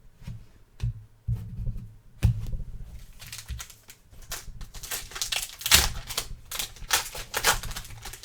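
Trading cards and a card-pack wrapper being handled on a table: a few soft knocks at first, then about three seconds in a fast run of crisp crackles and flicks as the pack is torn open and the cards are handled.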